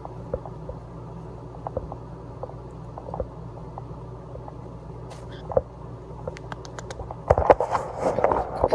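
Light scratching and rustling from a pet bird being handled on bedding, with scattered soft clicks, growing louder and busier about seven seconds in, over a steady low hum.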